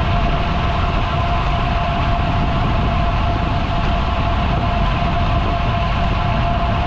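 Wind rushing over the microphone and tyre rumble of a road bicycle riding at speed, a steady loud rush with a constant thin whine.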